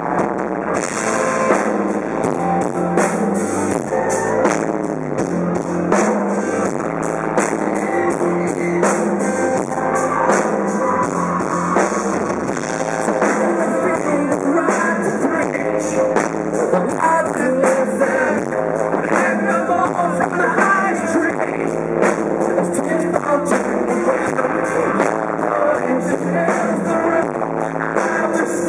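Live rock band playing: electric guitars, bass and a drum kit with regular drum hits, and a sung vocal line.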